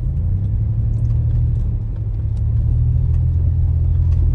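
A motor vehicle's engine running with a steady low rumble that grows a little louder about two and a half seconds in, with faint scattered clicks over it.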